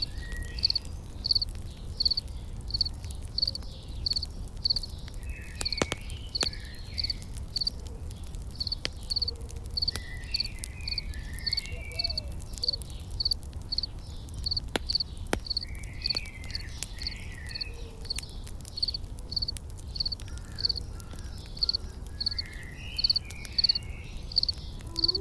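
A cricket chirping steadily, a short high chirp repeated about twice a second, over the low rumble of a campfire with a few sharp crackles and occasional brief bird twitters.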